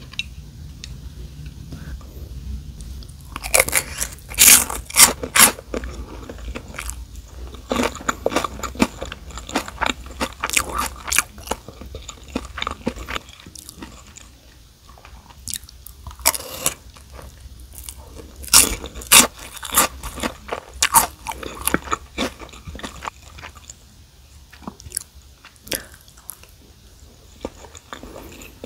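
Close-up chewing with bursts of crisp crunching, from a mouthful of kimchi fried rice with fried seaweed chips (gim-bugak). The crunching comes in clusters a few seconds long, with quieter chewing in between.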